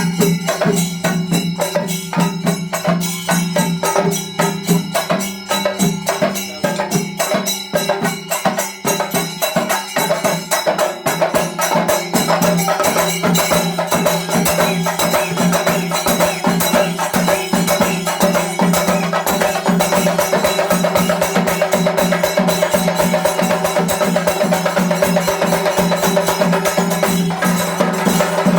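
Chenda melam: Kerala chenda drums beaten with sticks in fast, dense strokes, with ringing ilathalam hand cymbals. The beating quickens into a near-continuous roll about halfway through.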